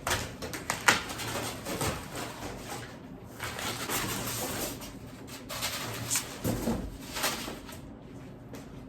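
Cardboard box of a gas range being opened by hand: packaging scraping and rustling, with several sharp knocks and clicks.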